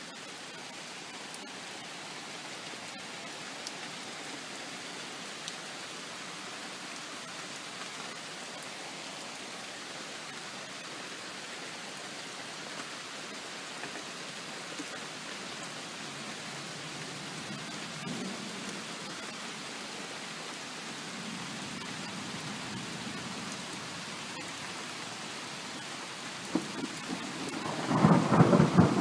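Steady rain falling, with faint low rumbles of distant thunder partway through, then a loud peal of thunder building over the last two seconds.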